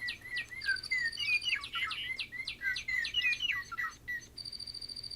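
Several toy birds playing recorded bird songs at once, the songs overlapping: a run of repeated falling whistles, with a fast high trill joining in twice.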